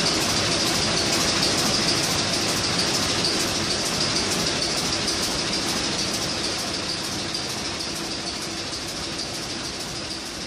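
Old Niigata 750 kW marine main diesel engine running steadily, gradually getting quieter.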